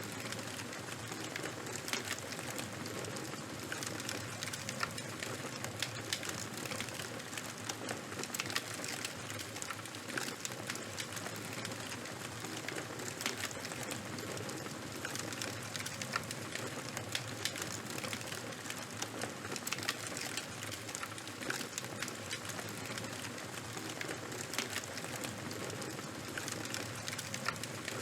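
Charcoal and wood fire burning: a steady hiss with many small crackles and pops.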